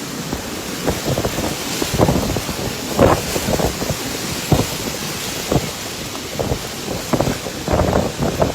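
Strong storm wind blowing over a steady hiss, buffeting the microphone in irregular gusts.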